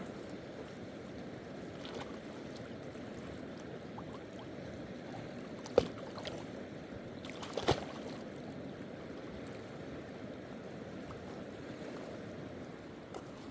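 Steady rushing of flowing stream water. A sharp knock cuts through about six seconds in, and a second one comes near eight seconds.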